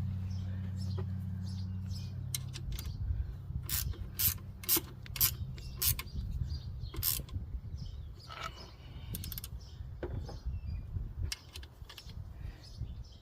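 Hand tools working on metal, with sharp, irregular clicks and knocks typical of a ratchet wrench being worked on bolts. A low hum stops about two seconds in.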